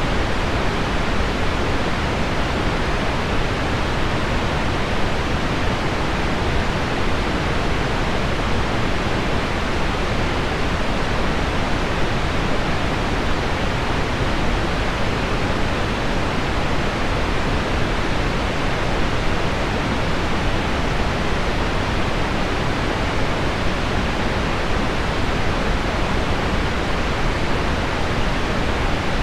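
Heavy rain on window glass blended with low pink noise: a steady, even rushing hiss with no breaks or single drops standing out.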